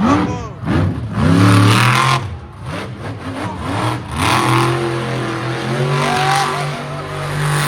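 Monster truck engines revving hard in quick rises and falls, then holding a steadier, loud run in the second half.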